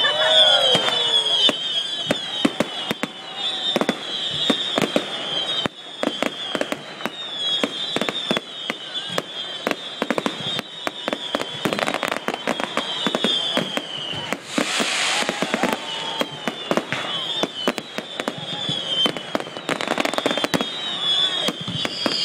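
Fireworks going off: a dense, continuous crackle of small bangs with shrill whistles that fall in pitch again and again. There is a louder, hissing burst about fifteen seconds in.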